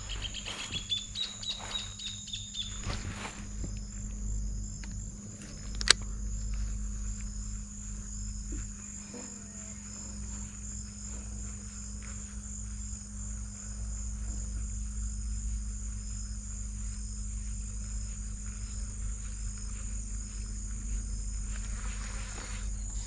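Insects chirring steadily in a high, continuous trill, over a low rumble. A single sharp click sounds about six seconds in.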